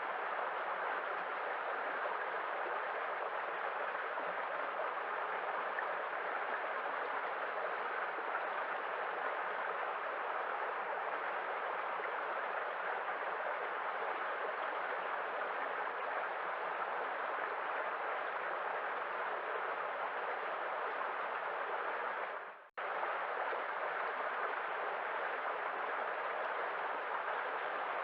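Steady, even wash of sea waves, with no separate surges standing out. About three-quarters of the way through it fades down and cuts out for a split second, then comes straight back.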